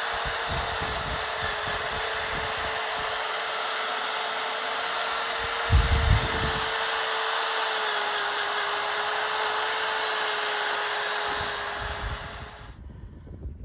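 Handheld power tool running steadily, a constant whine under a loud hiss, with a couple of low knocks about six seconds in; it cuts off shortly before the end.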